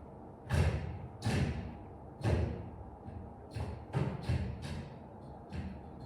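A series of about a dozen irregular knocks and thuds, some louder than others.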